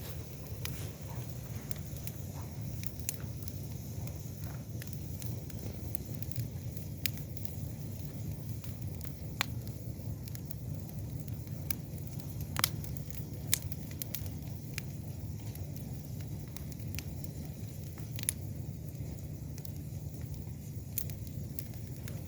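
Wood campfire burning, with scattered sharp crackles and pops over a steady low rushing noise. The loudest pops come a little over halfway through.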